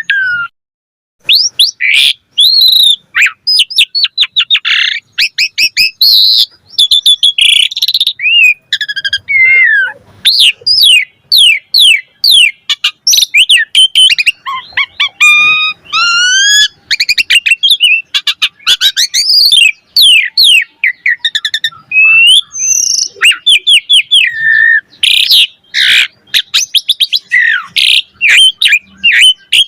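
Asian pied starling (jalak suren) singing: a rapid, varied string of loud whistles, chirps, sweeping notes and trills with only brief pauses.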